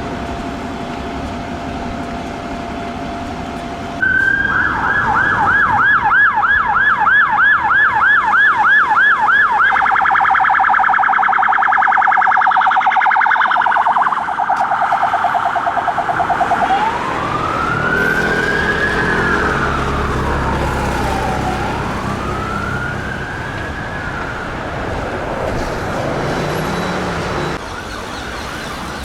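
Emergency-response police car sirens in traffic. A steady tone for the first few seconds, then a siren starts in a fast yelp, changes to a faster warble about ten seconds in, and switches to a slow rising-and-falling wail about seventeen seconds in that fades near the end.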